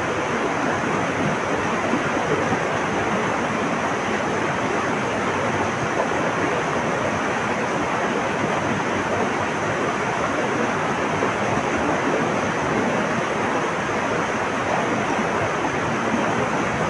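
Flowing water rushing in a steady, unbroken wash.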